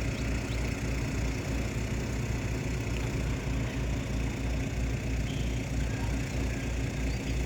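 Heavy diesel engine of a river tugboat running, a steady low rumble with an even throbbing beat a few times a second.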